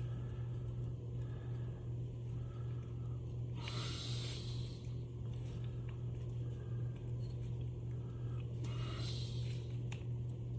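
A steady low hum throughout, with a person breathing out audibly twice, about four and nine seconds in, and a few faint clicks near the end.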